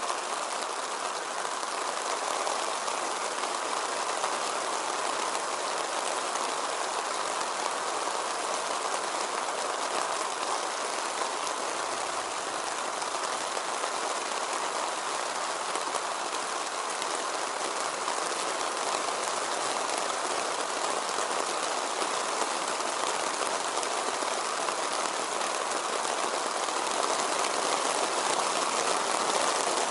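Steady rain falling in forest, an even dense patter that grows a little heavier near the end.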